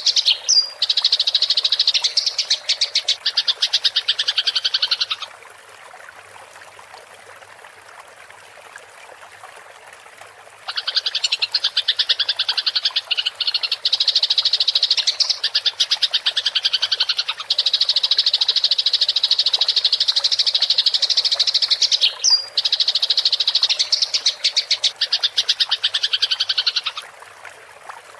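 Eurasian tree sparrows giving a fast, high-pitched rolling chatter, the calls of sparrows fighting. The chatter comes in two long bouts: the first stops about five seconds in, and the second starts about five seconds later and runs for some sixteen seconds.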